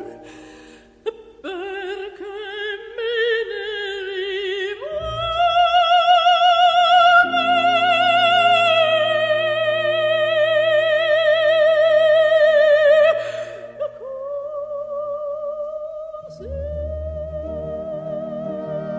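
Operatic aria: a high voice with wide vibrato sings over instrumental accompaniment, rising to one long held high note that lasts about eight seconds before the phrase breaks off and a quieter, steadier line continues.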